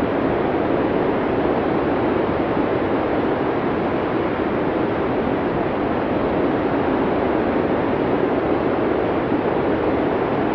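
Blizzard wind, a steady even rushing noise that does not change.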